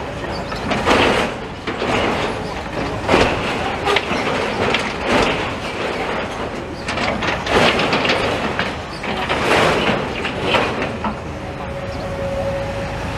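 Demolition machine at work on the burnt-out building: a series of loud crashing, scraping bursts of rubble and metal about every one to two seconds over a steady low engine rumble, with a short squeal near the end.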